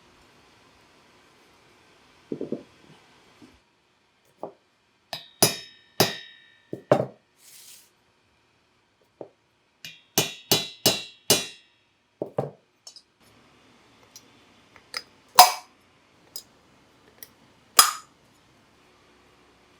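Metal tools and engine parts clinking and knocking against each other in about fifteen irregular sharp strikes, several with a short metallic ring, during hands-on engine assembly work. The loudest strikes come about fifteen and eighteen seconds in.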